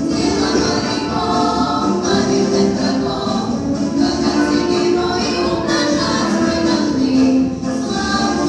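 Youth vocal ensemble singing a march song in chorus, with instrumental accompaniment.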